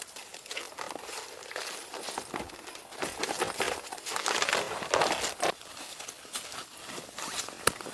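Irregular crunching and rustling with small clicks, louder about halfway through, and one sharp click near the end.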